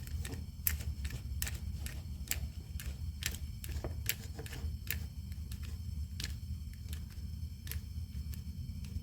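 Metal door latch mechanism worked by hand, clicking and snapping in an irregular run of sharp clicks, thicker in the first half. It works a little rough because rust has built up in the riveted assembly. A steady low hum lies underneath.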